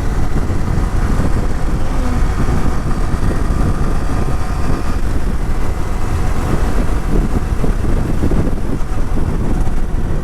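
Motorcycle riding at road speed, the engine running steadily under a loud, continuous rumble of wind and road noise.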